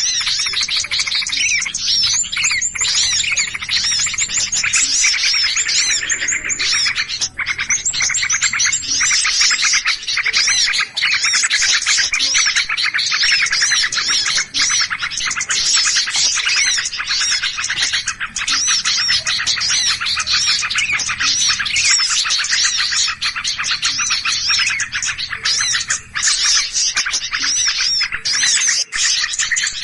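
A dense chorus of many small birds chirping and calling rapidly over one another without a break: an agitated 'noisy birds' lure recording of the kind used to draw small birds in.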